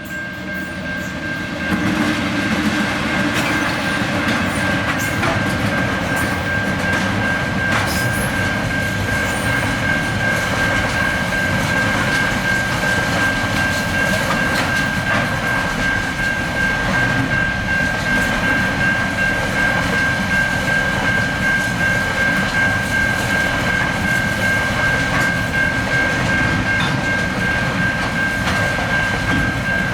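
TasRail freight train passing at close range, its diesel locomotives and wagons rolling over the rails with a clickety-clack. It grows loud about two seconds in and stays loud, with a steady high-pitched tone running through it.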